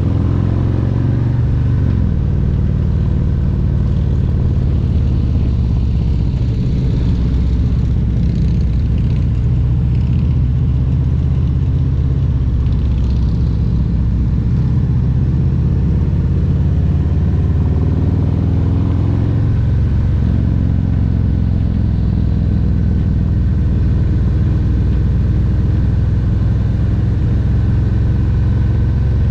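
Harley-Davidson Road Glide Special's Milwaukee-Eight 114 V-twin engine and exhaust running under way, a steady low rumble whose pitch drops and rises a few times as the rider works the throttle.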